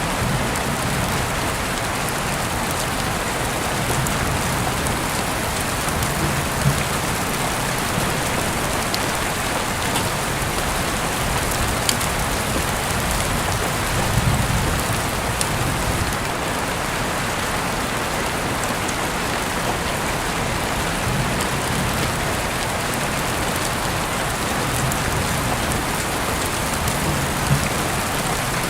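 Heavy rain heard through an open window: a steady, dense hiss with scattered sharper drop hits and a few soft low thuds.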